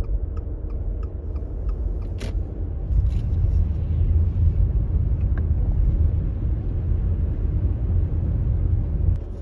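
A car driving, with a steady low rumble of engine and tyres from inside the cabin that grows a little louder about three seconds in. One sharp click comes about two seconds in.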